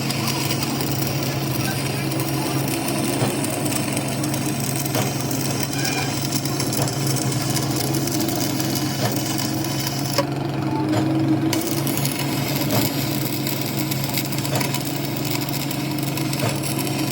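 A machine running steadily with a low hum and a noisy hiss, with scattered light clicks and knocks.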